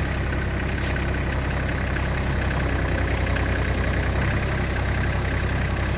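Kioti CS 2510 compact tractor's three-cylinder diesel engine running steadily.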